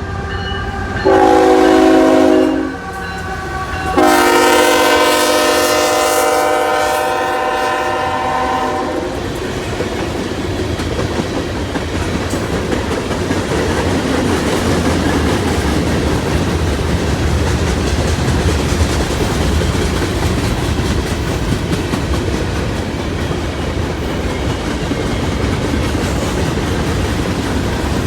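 CSX freight train's multi-note horn sounds a short blast and then a long one of about five seconds. After that comes the steady rumble and clatter of the train's cars rolling past.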